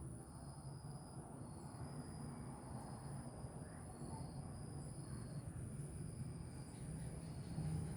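Steady high-pitched insect trilling, two unbroken tones, one very high and one lower that drops in and out, over a low rumble of outdoor background noise.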